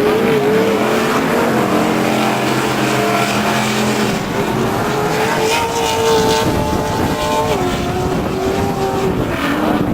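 Off-road race truck engines running at high revs, with more than one engine note at once. The main note climbs about halfway through and drops back near the end.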